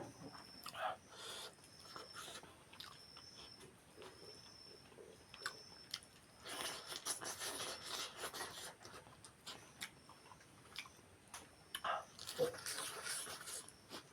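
Close-up chewing and eating sounds: wet, clicky mouth noises that come in bursts, busiest in the middle and near the end.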